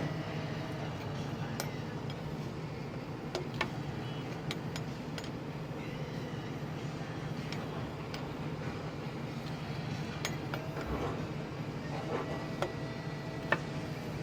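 Steel hand tools, wrenches and sockets, clinking against each other as they are handled: scattered sharp metallic clinks, a few of them ringing briefly, the sharpest near the end. A steady low hum runs underneath.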